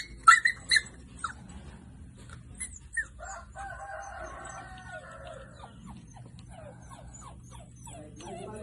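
Animal calls: a quick run of short, high yelping calls in the first second, then a long, drawn-out call lasting about two seconds.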